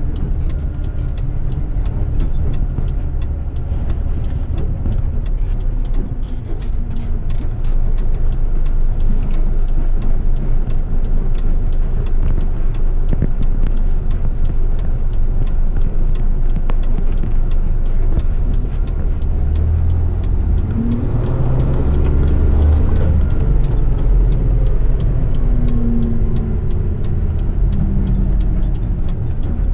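Heavy rigid truck's diesel engine and road rumble heard from inside the cab: a steady low drone. Around two-thirds of the way in the engine note rises and falls as the truck changes speed.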